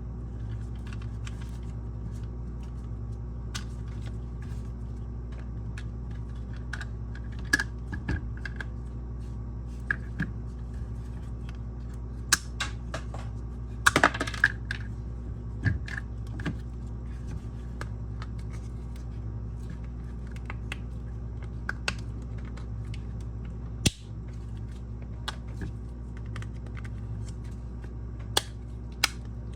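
Irregular small clicks and taps of hard objects, spread unevenly and busiest about halfway through, over a steady low hum.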